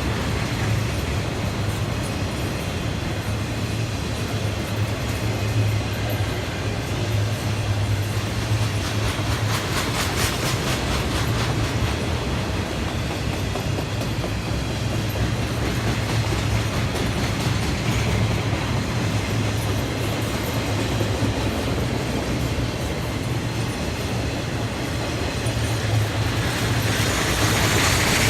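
A train's cars rolling past on the track: a steady rumble of wheels on rail, growing louder and hissier near the end.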